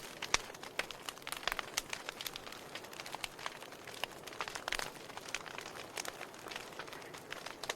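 Wood fire crackling in a fireplace: irregular sharp pops and snaps over a soft hiss of burning.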